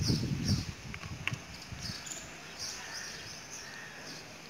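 Birds chirping in the background: repeated short, high chirps in small groups. Two light clicks come about a second in.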